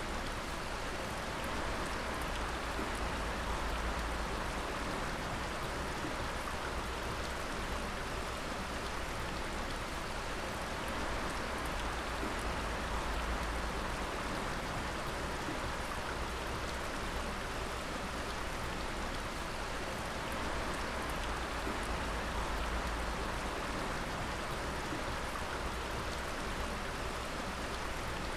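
Dripping water: many drops falling together into a steady, even spatter, with no pause or change.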